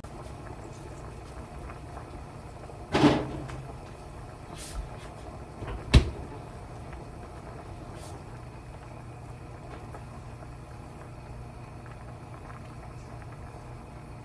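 Kitchen freezer door being opened and shut, with a short thump about three seconds in and a sharper, louder knock a little before six seconds, over a low steady hum.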